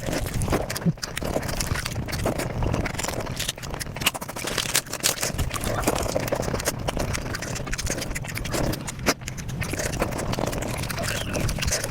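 Close-miked eating sounds sped up to five times normal speed: chewing, biting and mouth sounds turned into a dense, rapid chatter of clicks and crackles.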